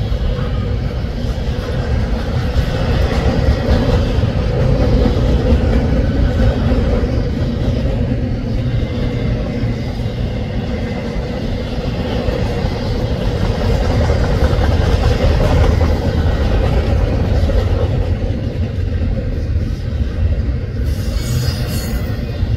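Double-stack intermodal container train's well cars rolling past: steady low rumble of steel wheels on rail, with a brief high-pitched noise about a second before the end.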